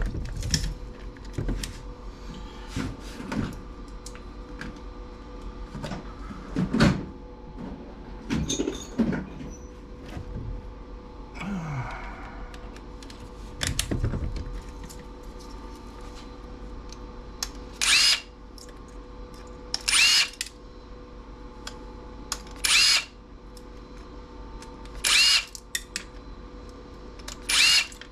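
Knocks and clicks of tools and metal parts being handled, then five short bursts of a power drill-driver spinning up, each about half a second long and a couple of seconds apart.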